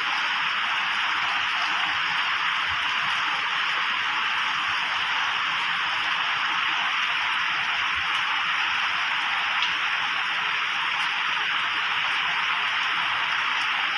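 Heavy rain pouring in a steady, even downpour.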